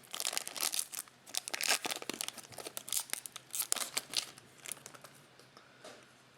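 Foil wrapper of a Topps Chrome trading card pack crinkling and tearing as it is opened, with the cards rustling as they are handled; the rustling thins out near the end.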